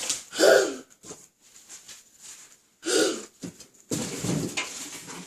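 Two short straining grunts from a child, then cardboard packaging rustling and scraping from about four seconds in as a new bike is worked out of its box.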